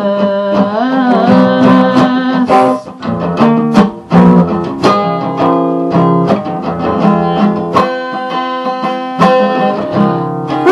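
Guitar strumming chords in an instrumental passage of a song, with a short vocal note about a second in.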